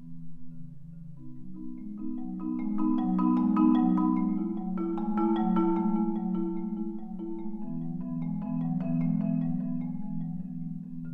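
Marimba playing sustained rolled chords low in its range, with the chords shifting and building louder through the middle before easing back.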